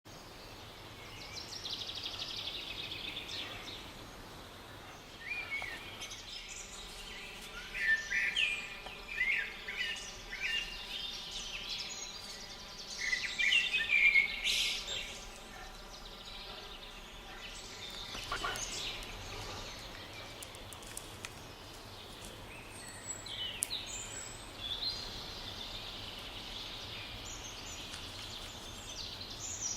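Wild birds calling and singing: repeated high chirping notes, loudest in clusters about eight and fourteen seconds in, over a steady background noise.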